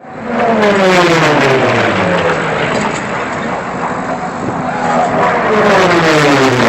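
Piston-engine racing airplanes flying past at high speed, the engine note dropping in pitch as each one goes by; one passes in the first half and another near the end.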